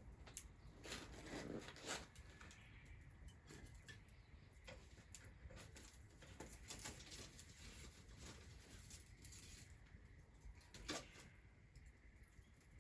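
Faint, irregular clicks and light pops over quiet background, with two louder ones about a second in and near the end.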